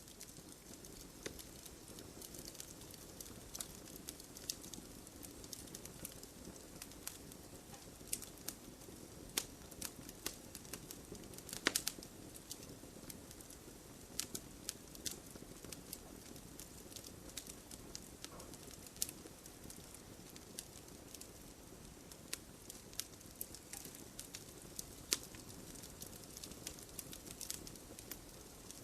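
Campfire crackling: irregular sharp pops and snaps over a low, steady rustle of the burning fire, with a louder pop about twelve seconds in.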